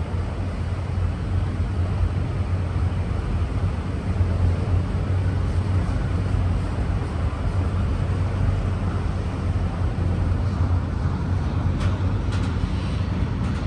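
Auto-rack freight train running past with a steady low rumble; a few sharp clicks sound near the end.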